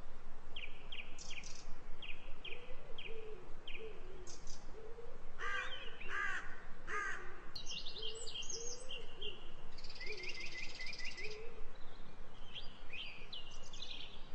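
Birdsong: several small birds chirping, with a quick trill at about ten seconds. About halfway through come three harsher, louder calls, like a crow cawing.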